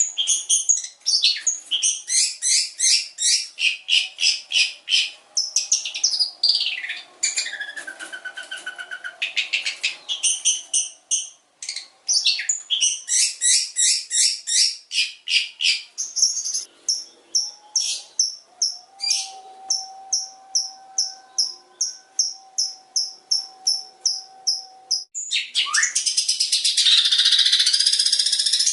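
Long-tailed shrike (cendet) singing a long, varied song of mimicked calls: fast runs of high repeated chirps, a few falling whistled glides, and near the end a dense harsh chattering burst.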